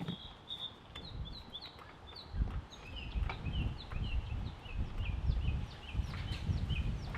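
A small bird chirping, a quick run of short high notes about three a second that drop in pitch partway through, over an uneven low rumble.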